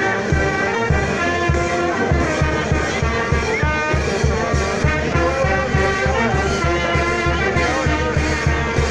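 Brass band playing a tune of held brass notes over a steady, evenly paced bass-drum beat.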